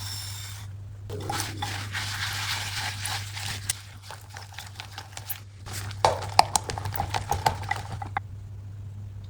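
Cake batter being mixed in a ceramic mug: wet scraping and sloshing of the thick mixture, then a quick run of about a dozen clinks of the utensil against the mug, over a steady low hum.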